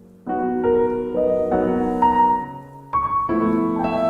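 Soft piano chords in an instrumental passage of a slow Korean pop ballad: a chord struck about a quarter second in and left to ring, then another near the three-second mark.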